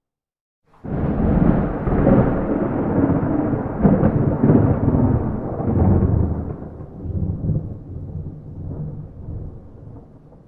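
A clap of thunder with no rain. It breaks in suddenly about a second in as a loud crackling rumble, holds for several seconds, then slowly rolls away and fades.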